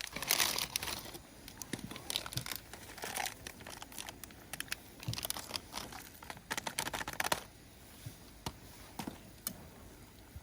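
Plastic packaging crinkling and rustling in irregular bursts as it is handled, with scattered small clicks, quieter near the end.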